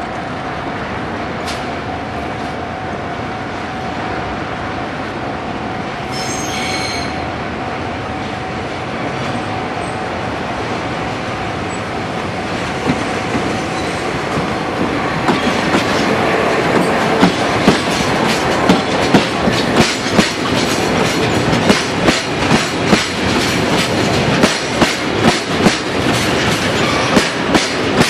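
DD601 diesel locomotive approaching with a freight train of Taki 1000 tank cars, its engine drone growing louder as it passes about halfway through, with a brief shrill tone about six seconds in. The tank cars' wheels then clack over the rail joints in a steady rhythm of sharp knocks.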